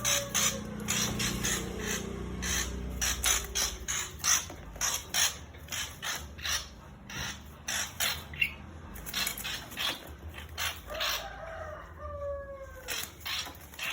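White-rumped shama calling with a rapid run of harsh, clicking rattle notes, about three a second, with a few falling whistled notes near the end.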